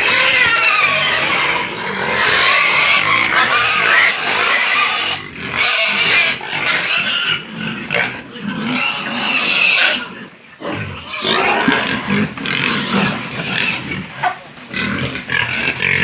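A pen of pigs squealing loudly and grunting as they crowd in to feed. Shrill wavering squeals come in overlapping runs, with lower grunts mixed in during the second half.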